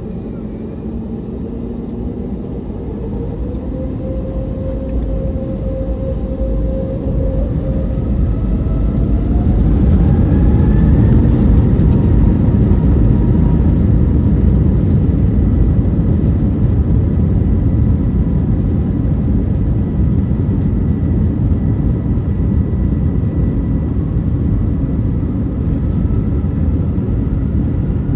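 Airbus A321neo jet engines spooling up, heard from inside the cabin: a rising whine over a rumble that grows louder for about ten seconds, then a steady loud engine and rolling rumble, typical of the takeoff run.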